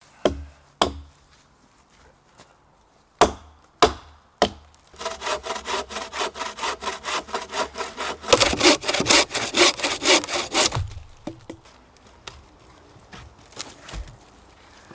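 A few sharp knocks on wood, then a hand saw cutting through wood with fast, even strokes, about four or five a second, growing louder near the end of the cut before it stops.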